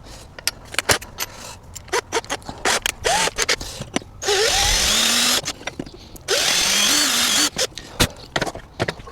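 Power drill boring holes in a solar panel mounting bracket, in two runs of about a second each, with clicks and knocks of the work being handled around them.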